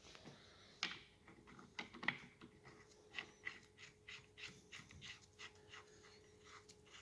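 Faint, irregular metallic clicks and scrapes, about two or three a second, as the steering rack's spring-loaded adjuster plug is fitted and threaded by hand into the rack housing.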